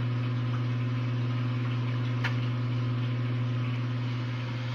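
Aquarium gravel vacuum drawing water and debris out of the gravel, heard as a steady hiss of water over a strong, even low hum. There is a single sharp click about two seconds in.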